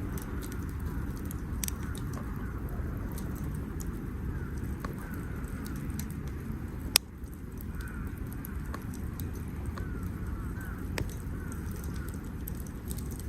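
Campfire crackling with scattered pops, a sharp loud pop about seven seconds in and another near eleven seconds, over a steady low rumble. Birds call faintly in the background.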